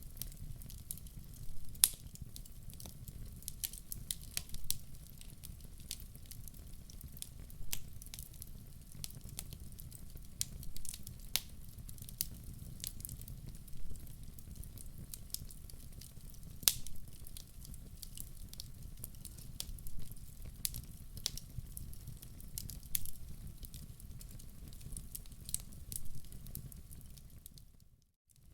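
Wood fire burning in a fireplace: a steady low rumble with frequent sharp, irregular crackles and pops. The sound cuts out briefly near the end.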